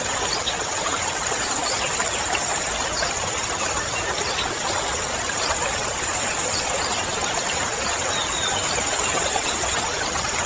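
Steady wetland ambience: an even hiss with a constant high-pitched drone running over it and no distinct events.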